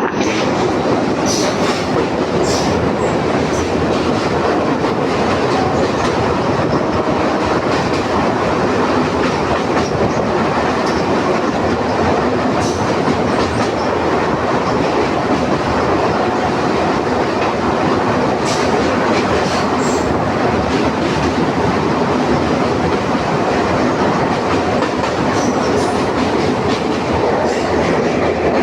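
DEMU passenger train running, a steady loud rumble of wheels on track with the clickety-clack of wheels over rail joints and occasional sharp clicks.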